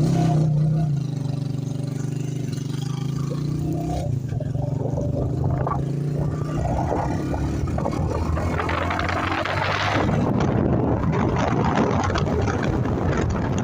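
Motorcycle engine running, with a steady engine note for the first few seconds, then a louder rushing noise from about eight seconds in as the bike rides on.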